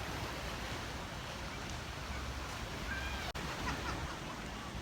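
Steady waterfront ambience: wind on the microphone and a low rumble, with a few faint high calls over it. The sound drops out for an instant a little over three seconds in.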